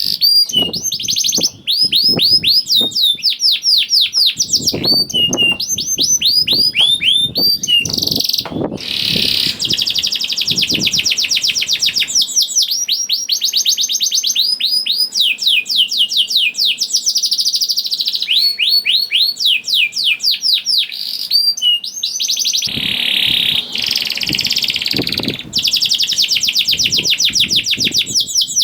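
Canary singing a long, continuous song of fast trills, rapid repeated high sweeping notes with a few buzzier rolling passages in between.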